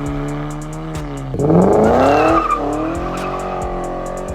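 Car engine running, then revving hard as the car accelerates away about a second and a half in, with its pitch rising sharply and tire squeal, before it eases off.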